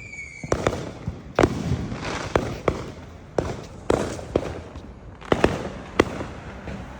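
Fireworks going off around the neighbourhood: about a dozen sharp bangs and pops at irregular intervals, some in quick pairs, over a steady outdoor hiss.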